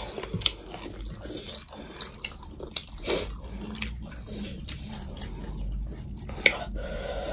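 Two people chewing and crunching a meal of fried chicken and rice eaten by hand, with many small irregular mouth clicks. One sharp click stands out about six and a half seconds in.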